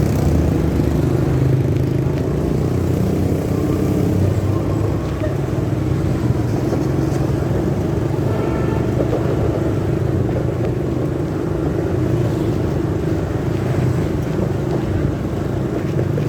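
Steady, muffled low rumble of a motorcycle on the move, picked up by a phone carried in the rider's pocket.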